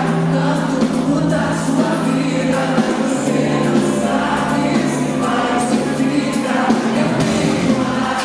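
Live band music with singing voices. A held bass note steps down in pitch about three seconds in.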